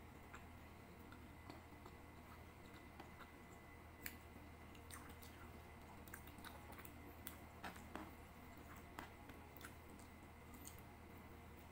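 Faint chewing and small wet mouth clicks of a person eating chicken adobo and rice by hand, over a low steady hum. The clicks come irregularly, the sharpest about four and eight seconds in.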